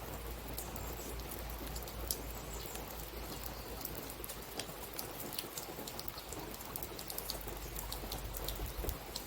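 Steady rain, with individual drops ticking in sharp, scattered clicks over an even hiss and a low rumble underneath.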